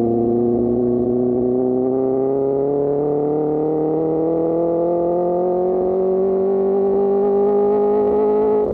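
Sport motorcycle engine breathing through an Austin Racing GP1R exhaust, pulling in one gear with its pitch climbing slowly and evenly. Near the end there is a brief dip in level and pitch as it shifts up.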